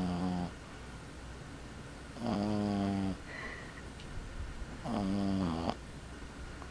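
A 12-week-old Boston Terrier puppy snoring in its sleep: three short, pitched snores about two and a half seconds apart, the first ending about half a second in.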